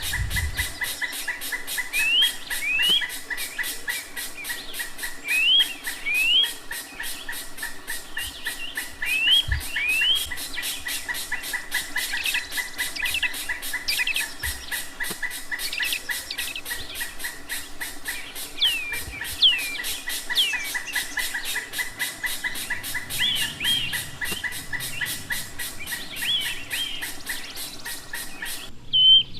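Birds calling in the wild: short rising whistled notes, often in pairs, repeated every few seconds over a steady high-pitched tone and fast even ticking. The sound cuts off suddenly near the end.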